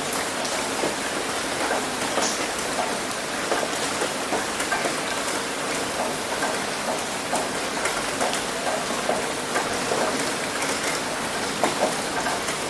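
Heavy rain hitting a roof: a steady, dense wash of rain with many separate drop taps scattered through it.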